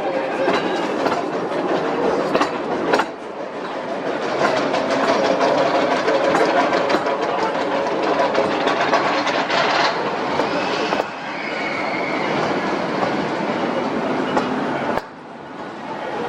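Vintage amusement-park ride train running along its track, wheels clicking and rattling over the rail joints with a steady rumble. The noise drops briefly a few times.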